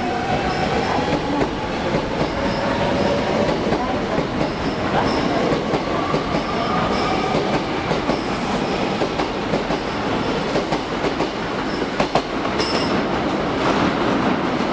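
Hankyu electric commuter train accelerating past the platform: the motor whine rises slowly in pitch over steady wheel-on-rail rumble and clicks from the wheels passing over rail joints.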